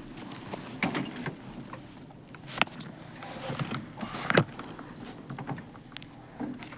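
Irregular clicks and knocks with some rustling, the sharpest about two and a half and four and a half seconds in.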